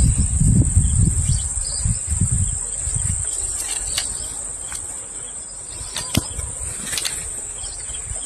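Steady, high-pitched drone of insects, with low rumbling in the first three seconds and two or three sharp clicks near the end.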